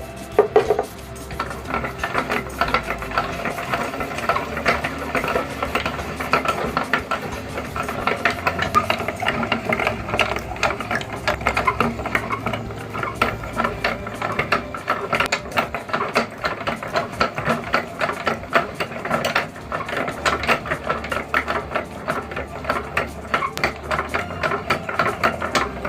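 Meat grinder working polymer clay through its auger and cutting plate: a dense, rapid mechanical clatter of gears and clicks.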